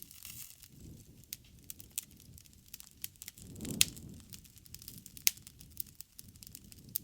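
Wood bonfire burning: a low rumble of flame under frequent sharp crackles and pops. The low rumble swells a little over three seconds in, with the loudest pop just under four seconds in and another strong pop about a second and a half later.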